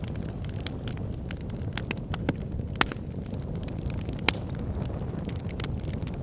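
Bonfire burning: a steady low rumble of flame with frequent sharp crackles and pops of burning wood, two louder pops a second and a half apart near the middle.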